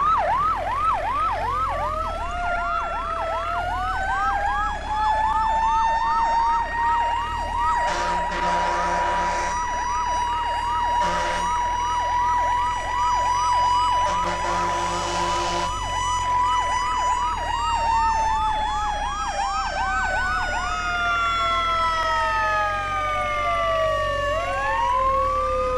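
Emergency-vehicle sirens: a fast yelp sweeping up and down over a slower wail that rises, holds and then falls away. Three horn blasts come at about 8, 11 and 15 seconds in.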